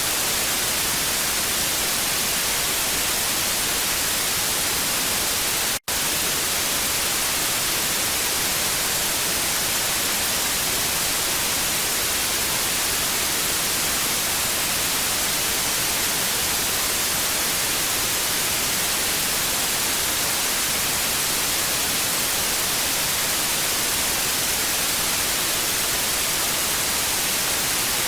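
TV static: a steady, even hiss, strongest in the high frequencies. It drops out for a split second about six seconds in.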